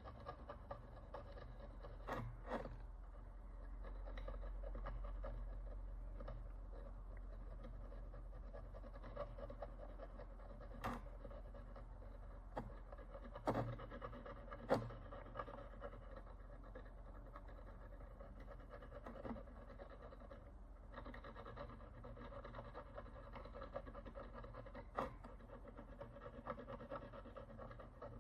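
Fine hand-tool scratching and scraping at the encrusted surface of an ancient bronze coin, a steady quiet gritty rasp broken by a few sharp clicks.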